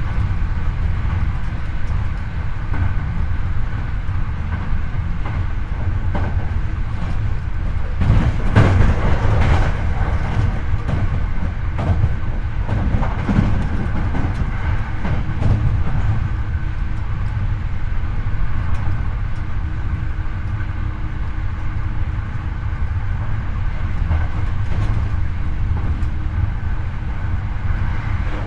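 Hankyu 8300 series electric train running at a steady speed, heard from the car floor over the bogie. Wheels rumble on the rails under a steady motor and gear hum, with a few louder rail-joint knocks about eight to ten seconds in.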